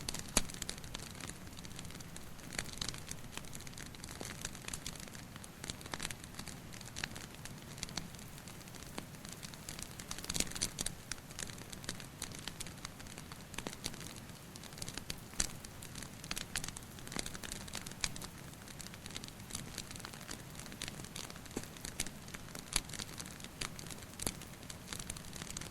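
Wood fire crackling, with irregular sharp pops and snaps over a steady soft hiss, mixed with dripping rain.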